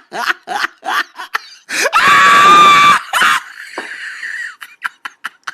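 A person laughing in quick rhythmic bursts, about four a second, then breaking into a loud, high-pitched shriek held for about a second. Fainter breathy sounds follow.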